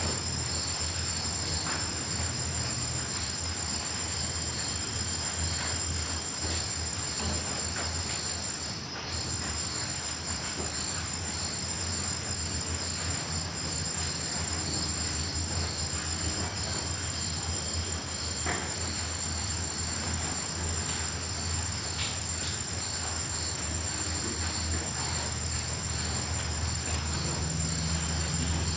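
Crickets trilling at night: one high continuous trill that breaks off briefly about nine seconds in, and a second, lower pulsing trill, over a steady low hum.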